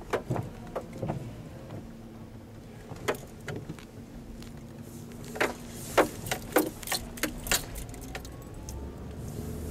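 Steady hum of a car interior on the move, with a scattering of sharp clicks and rattles that bunch into a run of louder clicks about halfway through.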